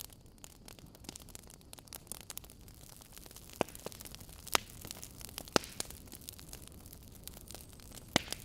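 Wood fire burning in a fireplace, crackling with a constant patter of small snaps over a soft hiss. Three louder pops come about a second apart in the middle and one more near the end.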